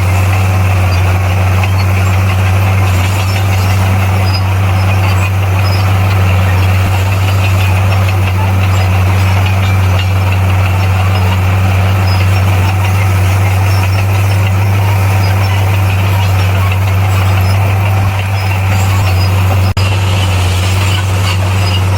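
Bulldozer's diesel engine running at a steady pitch, with a low even drone and mechanical clatter on top, broken once by a brief click near the end.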